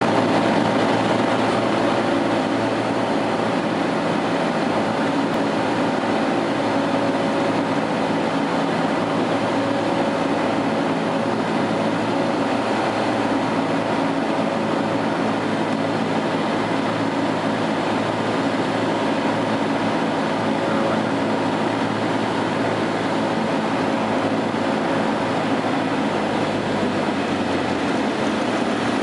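Cessna 172R's four-cylinder Lycoming engine and propeller droning steadily, heard from inside the cabin.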